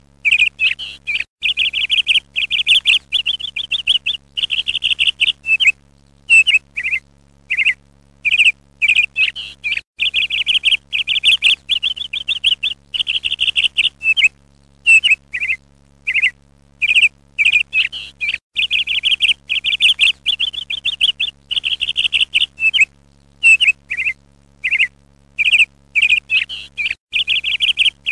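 Birdsong: one small bird's high chirps and rapid trills in short phrases with brief pauses between them. The same stretch of song seems to come round again about every eight and a half seconds, like a looped recording.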